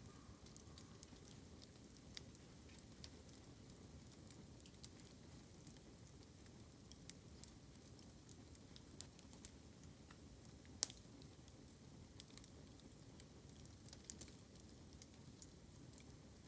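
Bamboo burning in an open fire, crackling with scattered small pops and one sharp louder snap about eleven seconds in.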